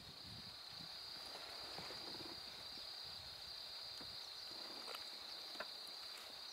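Steady high-pitched trilling of insects, cricket- or cicada-like, with a few faint clicks and knocks underneath.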